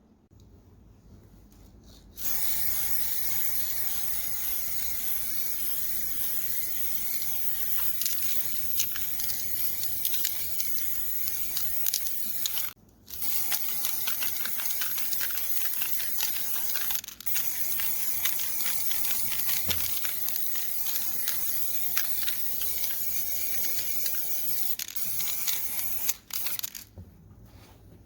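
Compressed spray hissing steadily in long runs. It starts about two seconds in, stops briefly near the middle and cuts off near the end.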